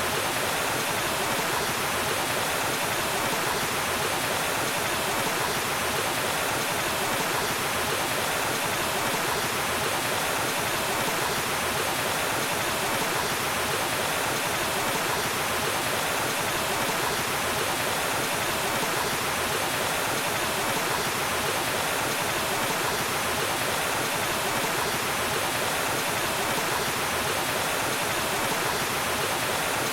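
Waterfall: water falling and rushing in a steady, even roar of noise with no breaks or changes.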